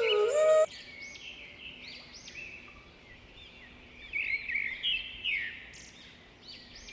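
Small birds chirping in a busy chorus of quick, arching high notes. Background flute music cuts off just before the chirping starts.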